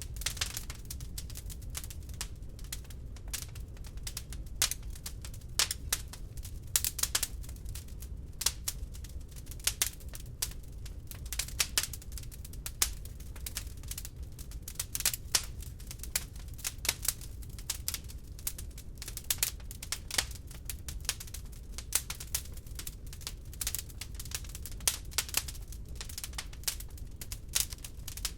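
Wood log fire crackling in a fireplace: irregular sharp crackles and pops, several a second, with the odd louder snap, over a low steady rumble of the flames.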